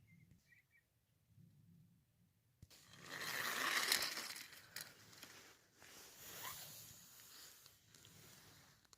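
Rustling and scraping with small clicks, which start about three seconds in, peak a second later, then trail off into fainter scraping.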